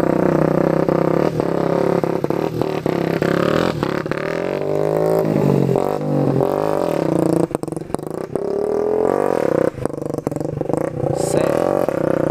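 Small motorcycle engine revving up and down several times, with scattered knocks and rattles. The riders suspect a worn clutch disc that leaves the bike weak.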